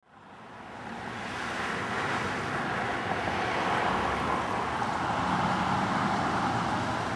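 Steady street traffic noise, fading in over the first couple of seconds, with a faint engine hum.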